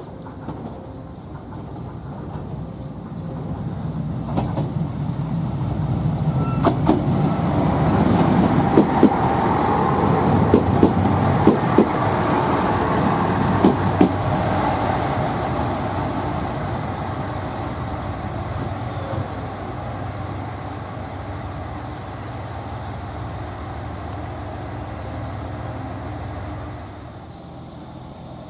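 A train passes on the rails: its running noise builds, the wheels clack over rail joints several times at its loudest, and the sound then fades away. A thin high squeal is heard briefly in the later part.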